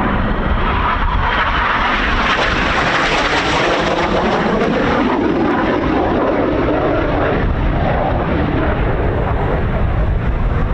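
BAE Hawk T1 jet noise from the Red Arrows display. It swells strongly about two to five seconds in, then eases into a lower rush, with wind buffeting the microphone throughout.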